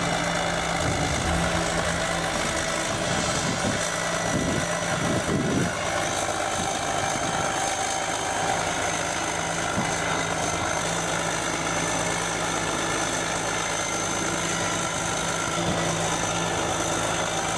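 Caterpillar D9G bulldozer's diesel engine idling steadily.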